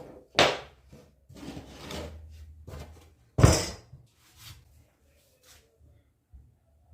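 Pieces of wood being handled: a knock, a scraping slide lasting about a second and a half, then a heavier thud and a few light taps.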